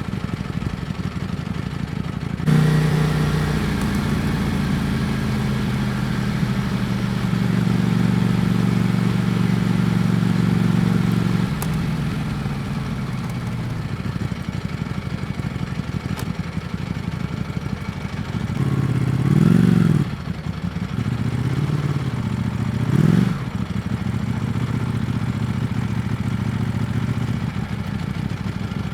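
Ducati Panigale V4 S's V4 engine heard from the rider's seat. It runs at low revs, then pulls harder from about two and a half seconds in with steps in pitch. It eases off near the middle, and two short revs rise and fall later on.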